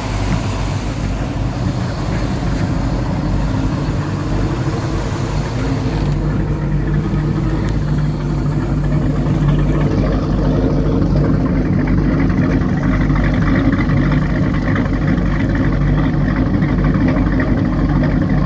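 Twin inboard engines of a 31 Bertram, one a freshly rebuilt 454 big-block V8, running together steadily. They sound healthy: "really good and strong".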